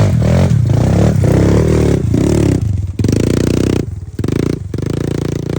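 Kawasaki KLX110 dirt bike's small four-stroke single-cylinder engine revving up and down under load on a loose hill climb, the throttle cut off briefly several times in the second half.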